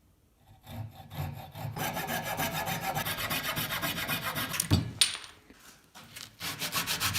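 A hand tool worked rapidly back and forth over a small wooden engine block, about five strokes a second. The strokes break off about two-thirds of the way in with two sharp knocks and a brief lull, then start again near the end.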